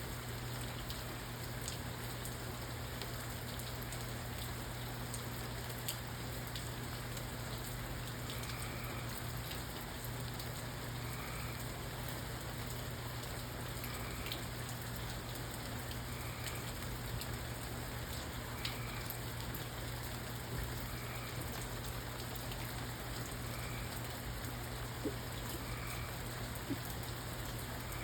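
Steady rainfall with scattered individual drops ticking, over a constant low hum.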